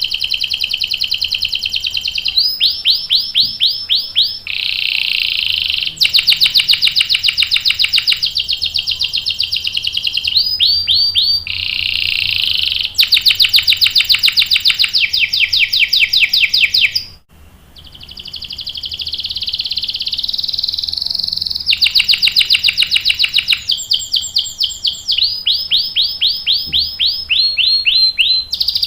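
Domestic canary singing a long song of rapid trills and rolls: fast runs of the same note repeated, switching to a new note every second or two, with a brief break about 17 seconds in.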